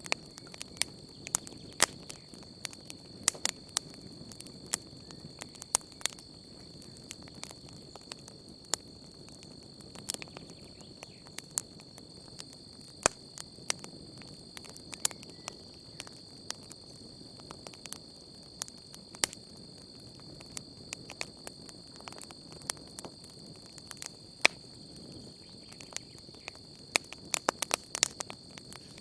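Campfire crackling: irregular sharp pops and snaps, now and then several in quick succession, over a low steady rush. Under it runs a steady high-pitched drone of night insects.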